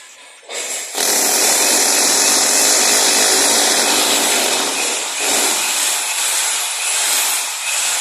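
A power tool running under load, a loud steady grinding noise that starts abruptly about a second in and dips briefly near the middle.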